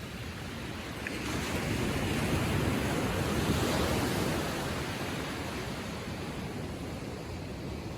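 Gentle ocean waves lapping on a sandy shore: a wash of surf swells about a second in and slowly eases away over the next few seconds.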